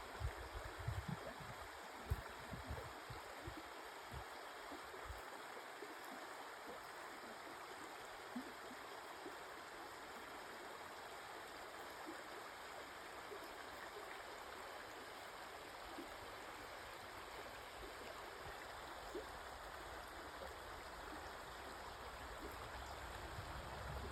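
Small brook babbling over rocks: a steady, soft rush of flowing water, with a few faint low bumps in the first couple of seconds.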